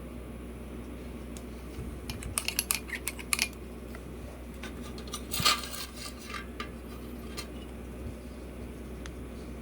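Small metal parts and tools clinking as they are handled on a bench: a quick run of light clinks, then one louder clatter about halfway through and a few scattered taps, over a steady low hum.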